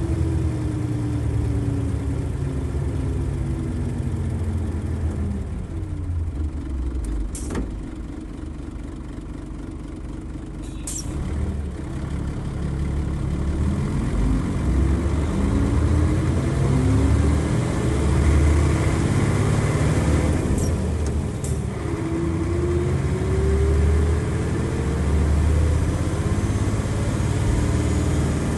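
Nissan Diesel FE92TA turbocharged diesel engine of a bus. Its revs fall away, it runs quieter for a few seconds with a couple of short sharp clicks, then it revs up through the gears with a climbing pitch, drops once at a shift and climbs again.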